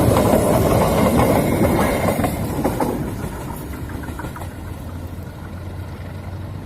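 Passenger train rolling over a railway bridge, wheels clattering on the rails. It is loud at first and fades from about two seconds in as the train moves away, leaving a low steady rumble.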